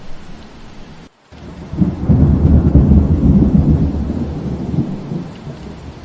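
Steady rain with a loud, low rumble of thunder that swells about two seconds in and slowly fades away. The sound cuts out for a moment about a second in.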